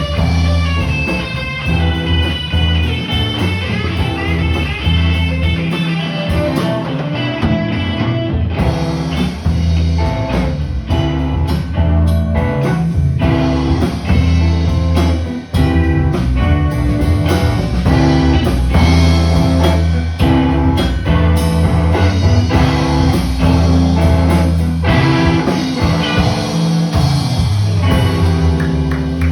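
Live band playing an instrumental blues-rock passage: guitar over a strong, steady bass line and drums, with no singing.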